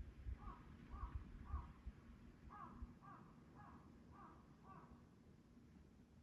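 A crow cawing faintly: three caws, a short pause, then five more in quicker succession. A faint low rumble runs under the first half.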